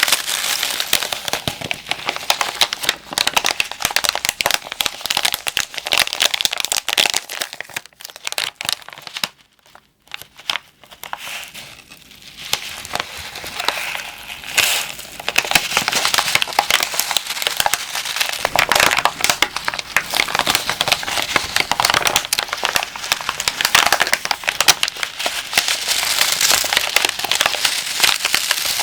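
Moisture removal pack crinkled and squeezed close to the microphone: dense, continuous crackling and crumpling of its plastic, which pauses briefly about a third of the way in, then starts again.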